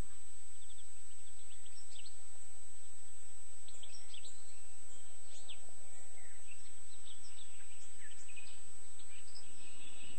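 Scattered short bird chirps over a steady background hiss.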